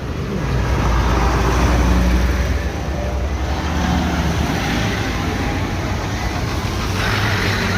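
Low engine rumble of tractors and trucks in a convoy driving past, swelling loudest between about one and two and a half seconds in, then carrying on steadily.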